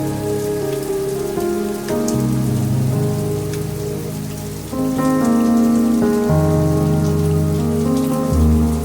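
Rain falling steadily, with scattered drop ticks. Slow, held music chords play over it, changing every second or two.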